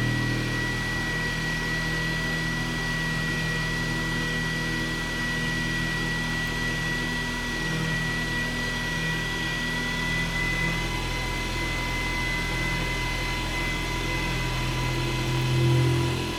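Manual milling machine running with its cutter working the part: a steady motor hum with a thin, steady high whine. The low hum stops shortly before the end.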